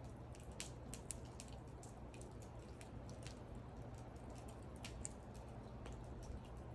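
Wood fire crackling: irregular small pops and snaps of burning wood over a low steady rumble.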